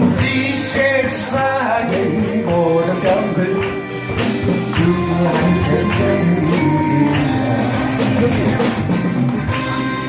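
Live worship band playing a praise song, with singing over a steady percussion beat.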